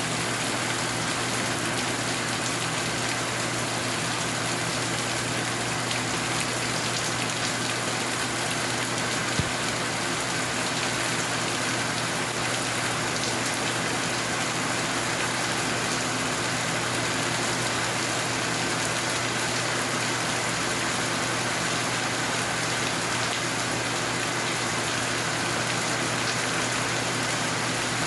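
Steady rain falling, an even hiss that does not let up, with a single sharp click about nine seconds in.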